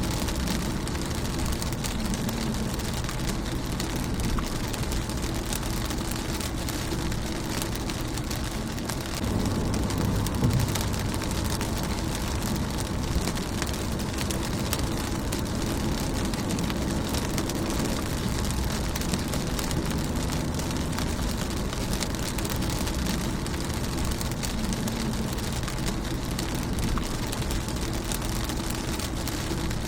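Steady rain drumming on a car's windshield and roof, dense patter of drops over a low rumble, swelling briefly about nine seconds in.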